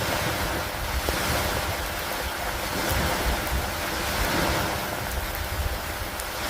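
Steady rain falling on a wooden dock by a lake: an even hiss with a few faint drop ticks and no break or thunderclap.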